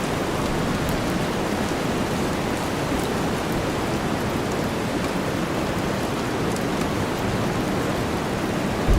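Steady rainfall layered over a deep white-noise bed, with fine drop ticks through the hiss. Right at the end a low rumble of thunder begins.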